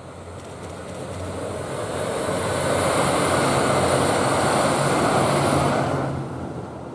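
JR Shikoku 2000 series diesel multiple unit passing by: diesel engine and wheel-on-rail noise swelling to a peak in the middle, dropping off about six seconds in and fading near the end.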